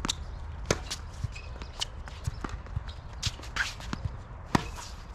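Irregular sharp knocks and shuffling footsteps on a tennis court, the two loudest knocks about a second in and near the end, over a steady low rumble.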